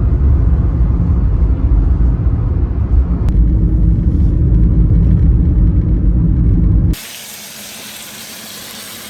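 Steady low rumble of a car driving. About seven seconds in it cuts abruptly to a quieter, even hiss of food sizzling in a frying pan.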